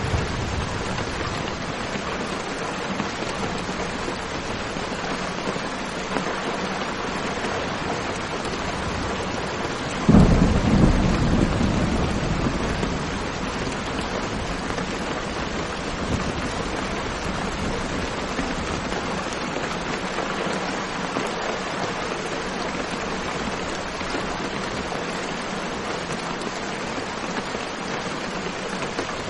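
Steady rain, with a sudden clap of thunder about ten seconds in that rumbles and fades over a few seconds.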